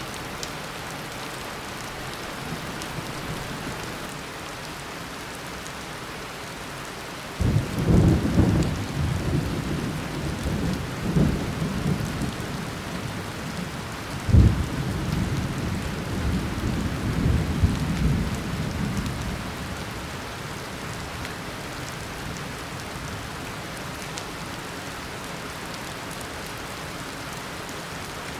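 Tropical rainstorm: steady heavy rain, with a roll of thunder that breaks suddenly about a quarter of the way in, rumbles on with a few louder cracks, and dies away after about twelve seconds.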